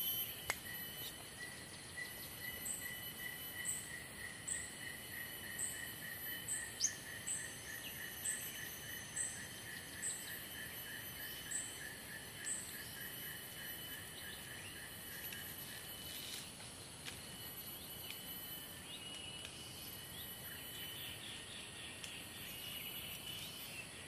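Faint outdoor insect and bird ambience: steady high trilling insects, one of them pulsing rapidly, with a short high chirp repeated about once a second through the first half.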